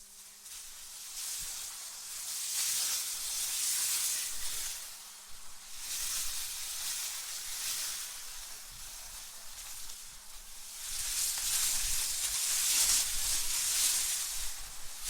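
Synthetic wind gusting: a high, airy hiss that swells and eases every few seconds, with a low rumble joining the gusts about two-thirds of the way through.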